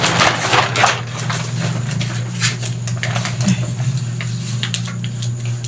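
Irregular small clicks and clatter over a steady low hum.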